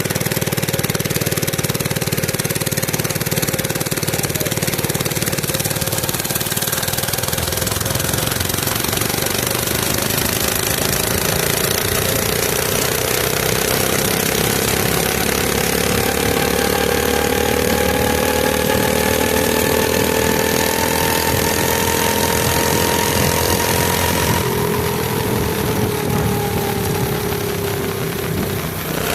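Mini bike's small engine running steadily, its pitch climbing slowly for several seconds as it speeds up, then dropping and easing off near the end.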